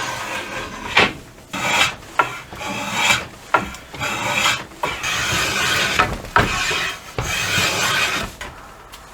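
A tool scraping the wood of a homemade maple bow stave in a run of uneven strokes, with a few sharp knocks between them.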